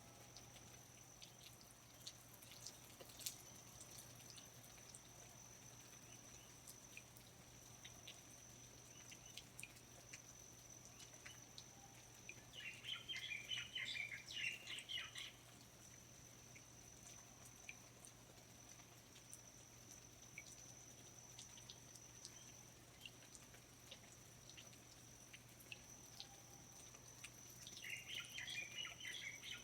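Quiet rainforest ambience: scattered water drips and a steady high thin tone, with a bird's rapid chattering call about halfway through and again near the end.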